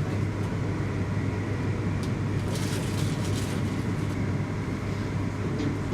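Steady low rumble of a vehicle running, an even drone with no changes.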